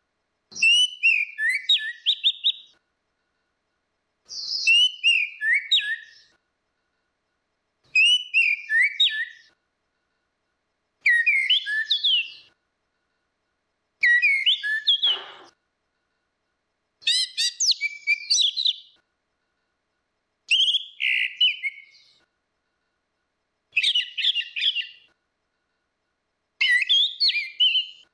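Orange-headed thrush singing: nine short warbled phrases of quick, sliding whistled notes, about one every three seconds, with silent gaps between.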